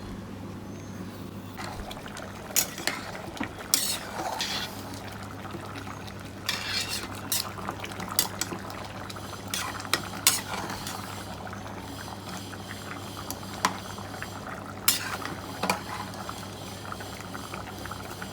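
Metal spoon stirring rice and water in a pressure cooker pot, with irregular clinks and scrapes against the pot over a steady low hum.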